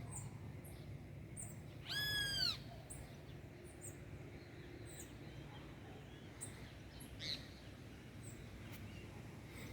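Birds calling: scattered short, high chirps, and one longer call about two seconds in that rises and falls in an arch, with several overtones. A steady low hum sits under them.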